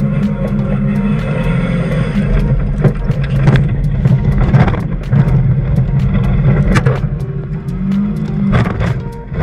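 Car engine running with a steady low drone, with sharp knocks and clicks scattered through and a slight rise in pitch about eight seconds in.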